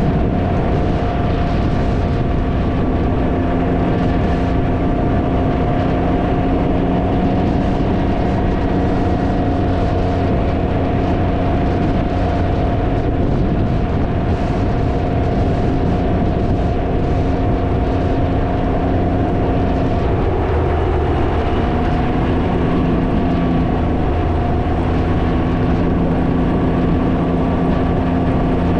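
Can-Am Ryker three-wheeler's engine running steadily under way, with heavy wind noise buffeting the microphone. The engine note dips briefly about two-thirds of the way through, then settles again.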